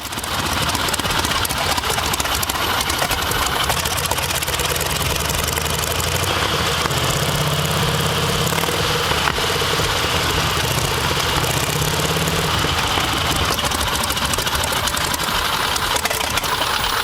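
Old aircraft engine fitted into a Volkswagen, running steadily with a rapid, even stream of firing pulses.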